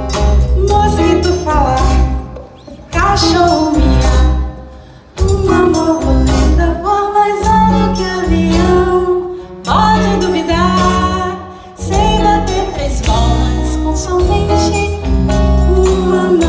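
Live rock band music with a steady bass and drum beat and a melody line over it, dropping back briefly a few times.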